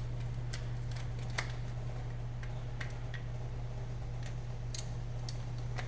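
Scattered light metallic clicks and ticks from a hand ratchet and socket working on engine bolts, irregular rather than a fast ratcheting run, over a steady low hum.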